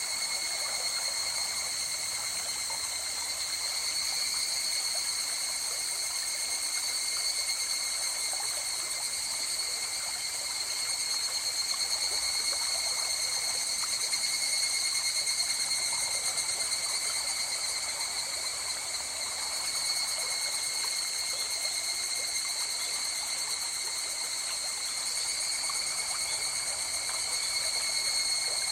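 River water flowing in a steady rushing stream, with a continuous high-pitched drone over it.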